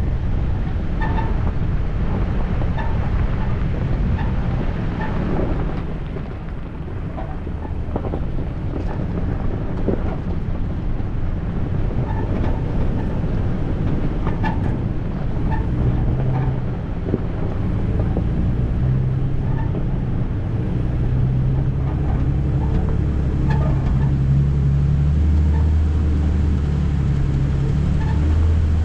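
A 4x4 vehicle crawling along a rough dirt trail: engine running under a low rumble of tyres and driveline, with scattered knocks and rattles from the body and suspension. The engine note grows steadier and louder over the last third.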